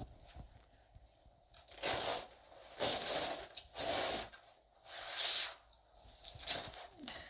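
A series of four or five scraping, crunching strokes about a second apart, the loudest about five seconds in.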